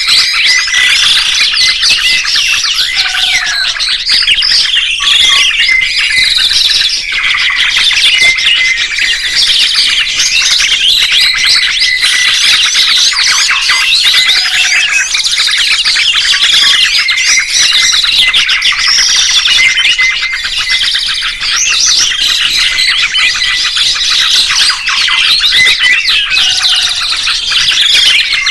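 Dense, continuous chorus of songbirds chirping and trilling in fast, high notes. The same stretch comes round again about every eleven seconds, as in a looped recording.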